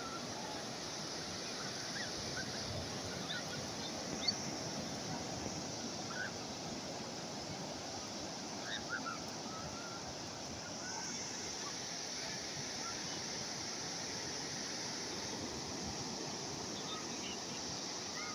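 Calm sea waves washing steadily on the shore, with a scattering of short, faint high calls and one small sharp tick about four seconds in.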